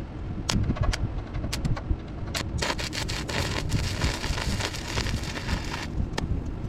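Welding arc on a truck fender: a few short pops, then about two and a half seconds in a steady dense crackle that runs for around three seconds before breaking off. A low rumble continues underneath.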